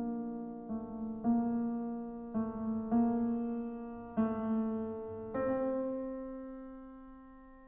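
Background piano music: slow chords struck about once a second, the last one held and slowly dying away.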